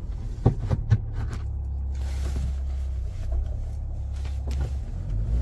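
Mahindra Thar engine running with a steady low drone as the 4x4 climbs a steep, rough shortcut, with a couple of brief knocks about half a second and a second in.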